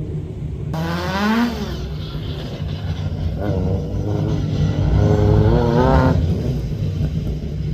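Rally car engine revving under acceleration, over a steady low engine drone. The pitch rises briefly about a second in, then climbs again from about three and a half seconds with several dips before falling away after six seconds.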